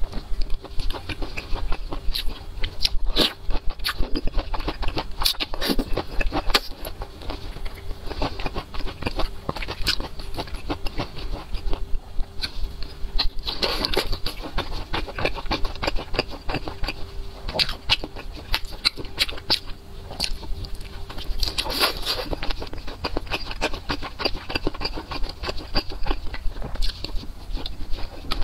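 Close-miked chewing and wet, sticky mouth sounds of eating chili-sauce-coated skewered meat: a dense run of small clicks and smacks.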